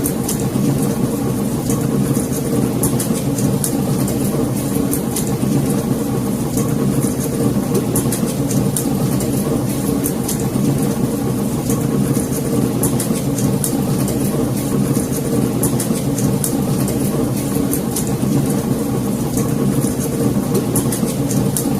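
Wood fire crackling in a fireplace: frequent short snaps and pops over a steady low rumble of the flames.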